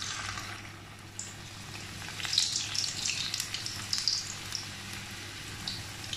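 Vegetable spring rolls frying in hot oil in a pan: a steady sizzle that begins as the rolls are laid in, with crackling pops that are loudest from about two to four seconds in.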